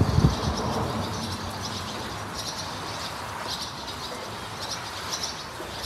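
Small songbirds chirping in several short bursts, about a second apart, over a steady faint hiss of outdoor background noise.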